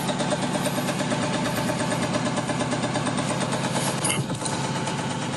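Construction machinery engine running steadily with a fast, even pulsing rattle.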